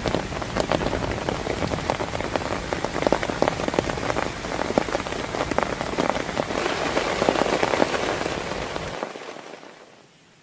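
Heavy rain falling, a dense patter of drops hitting a surface close to the microphone. It fades out about nine seconds in.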